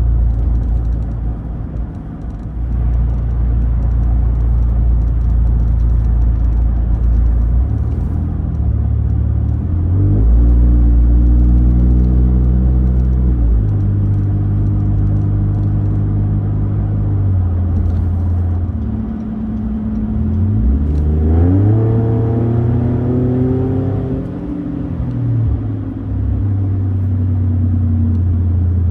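Ford Raptor pickup's engine breathing through an aftermarket Roush exhaust while driving. A steady low drone steps in pitch a few times as the truck changes gear. About two-thirds through, the revs climb under acceleration, then drop back to a steady cruise.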